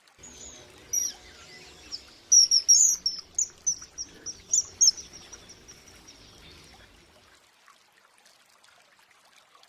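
Common kingfisher calling: a rapid series of short, shrill, high-pitched whistled notes, thickest and loudest between about two and five seconds in, then dying away. A low background rumble runs underneath and stops about seven seconds in.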